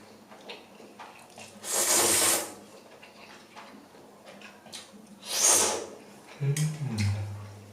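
Two loud slurps of spicy instant ramen noodles, about two seconds in and again about five and a half seconds in, with soft chewing clicks between them. A short low hum from the eater near the end.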